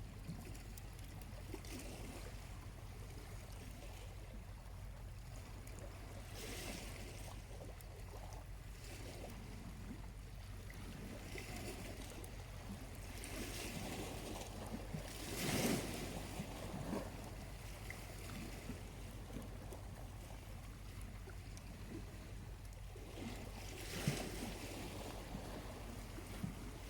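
Small sea waves washing onto a beach, swelling and receding about three times, the biggest about halfway through. A few faint sharp pops from a charcoal campfire come through.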